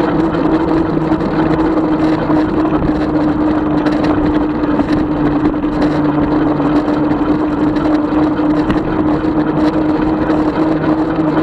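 Electric bike riding along: a steady motor hum holding one pitch over a constant wash of wind and road noise, with a few faint clicks.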